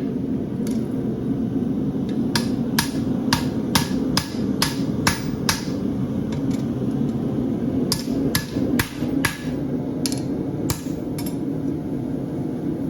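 Farrier's hammer striking a steel horseshoe bar on the anvil to bump up the toe, thickening the steel where the shoe wears most. Two runs of about eight quick blows with a short pause between them, over a steady low rush.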